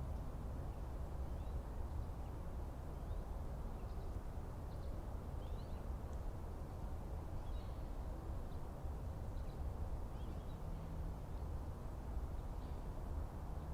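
Forest ambience: a steady low rumble of background noise with faint, scattered bird chirps throughout. A low steady hum joins in near the end.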